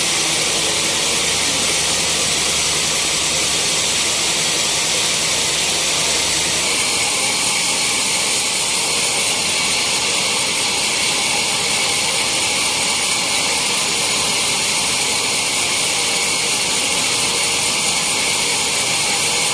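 Sawmill machinery running with a loud, steady high-pitched hiss. A low hum underneath drops away about seven seconds in.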